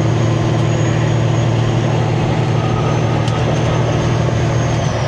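Semi-truck engine and road noise while driving: a steady, loud low drone with an even rush over it and a faint high whine, unchanging throughout.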